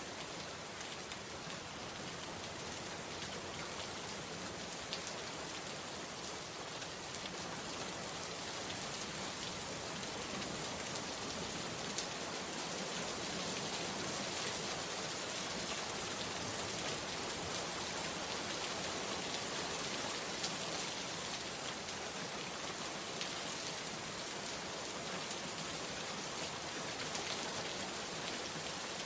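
Steady rainfall: an even, constant hiss of rain with scattered drop ticks.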